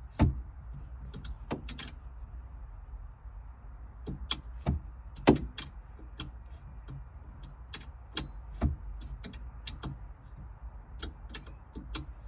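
Irregular sharp clicks and knocks, a few of them louder thunks, from hand work on a Jeep Wrangler JK's interior during a roll bar install, over a low steady rumble.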